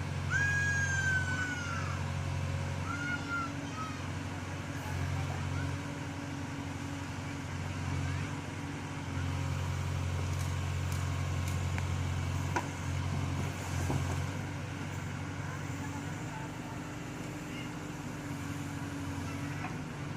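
Backhoe loader's diesel engine running steadily, its low note swelling and easing as the load changes. Near the start a few high, arching calls sound over it.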